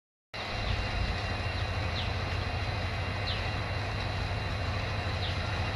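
Steady low rumble of a distant approaching train, with short high falling bird chirps every second or two.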